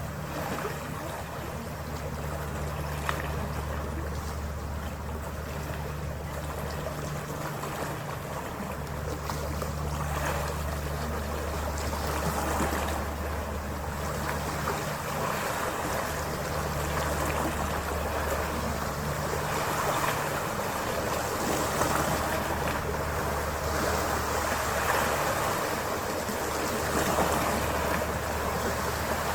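Harbour ferry underway: a steady low engine drone under the rush and splash of water along the hull, with some wind on the microphone. The water noise grows a little louder in the second half.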